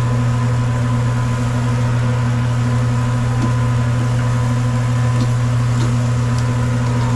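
A loud, steady low hum with a few faint ticks over it.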